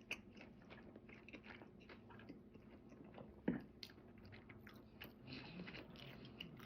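Faint chewing: a person eating, with soft mouth smacks and small clicks. One louder mouth sound comes about three and a half seconds in.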